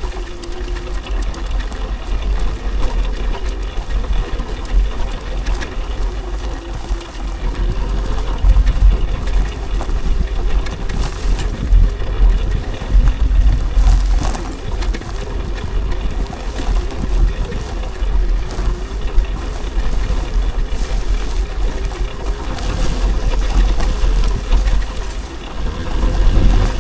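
Wind buffeting the microphone while riding an electric dirt bike, a steady deep rumble, with the bike's motor whine faintly rising and falling with speed.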